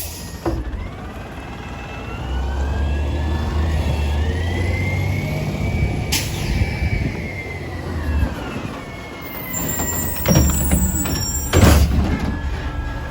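Garbage truck's engine revving up with a rising and falling hydraulic whine, then falling back. A sharp click comes midway, and a run of metal clanks and bangs follows in the last few seconds.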